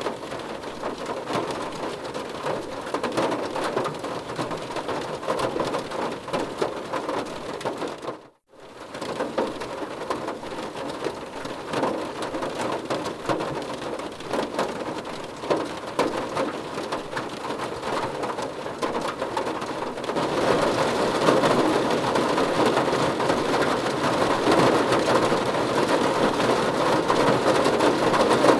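Steady rain falling on a surface, a dense hiss full of small drop ticks. It cuts out briefly about 8 seconds in, like a splice in a looped recording, then returns, and grows louder and heavier about 20 seconds in.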